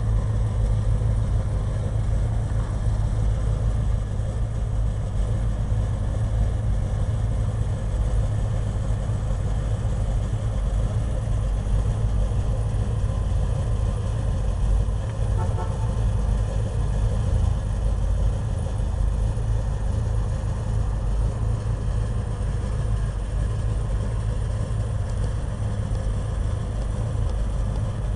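A car engine idling steadily, a low, even rumble that holds without change.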